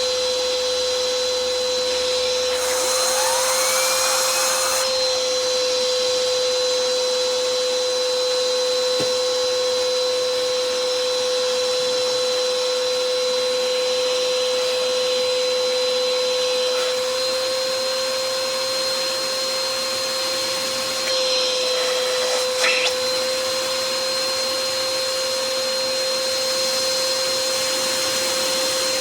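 Hoover upright vacuum cleaner running steadily, its motor giving a constant whine. A brief rising whistle comes a few seconds in, and a couple of knocks come about three-quarters of the way through.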